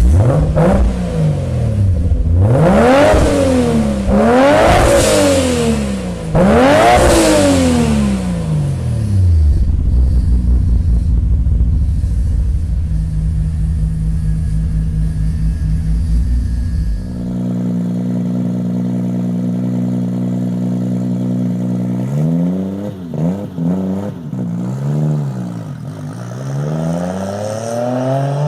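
Modified Nissan Skyline R34 GT-R's RB26DETT twin-turbo straight-six being revved hard four times, each rev rising and falling in pitch, then dropping to a low, lumpy idle. About two-thirds of the way through, the sound changes abruptly to another engine idling, which is blipped several times, with a last rev rising at the end.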